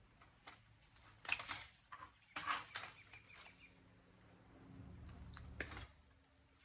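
Scattered clicks and scrapes of wire connectors and small parts being handled while wires are pulled off an electronics chassis, with a brief low hum about five seconds in.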